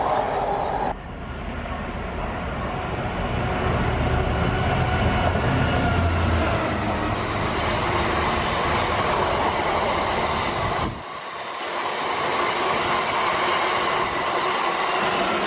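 Freight train running past, its wagons rumbling and clattering over the rails. The sound drops abruptly about a second in and again about eleven seconds in, then carries on.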